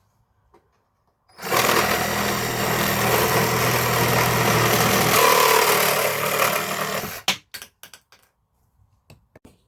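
Cordless reciprocating saw with a 10 TPI blade cutting through a thick plastic pipe. It starts about a second in, runs steadily for about six seconds with a change in tone partway through, then stops, followed by a few sharp knocks.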